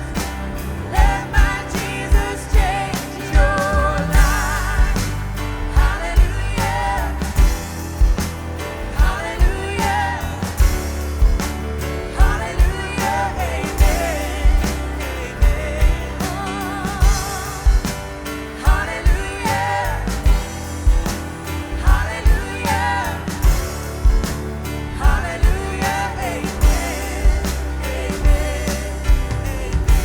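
Live worship band playing, with sung vocals over bass, drums, keys and guitar, with a steady beat.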